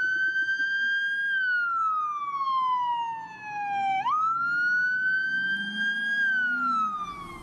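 Police siren wailing with one clean electronic tone. Its pitch slides slowly down, snaps back up about four seconds in, and slides down again.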